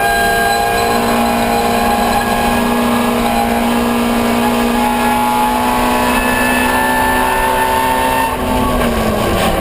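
Ford Escort 1300GT race car's 1300 cc four-cylinder engine running hard at high revs. Its pitch climbs slowly for several seconds, then the revs fall away near the end.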